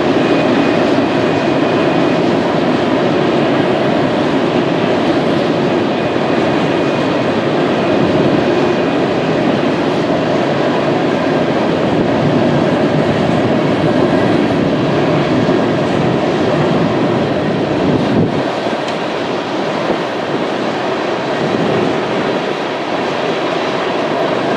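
Long string of coal hopper cars of a freight train rolling past on curved track: a steady noise of wheels on rail. A faint thin squeal of wheels on the curve sounds in the first couple of seconds.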